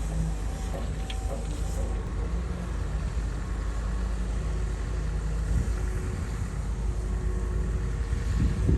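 Komatsu bulldozer's diesel engine running steadily under load, a continuous low rumble with faint steady tones above it.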